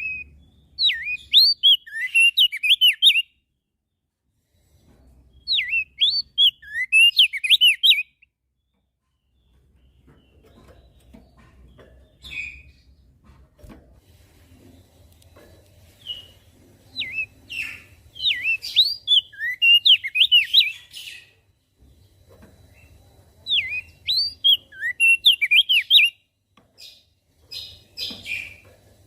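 Crested white-eye (opior jambul) singing: four phrases of quick up-and-down whistled notes, each two to five seconds long, with a few short single calls in the gaps between them.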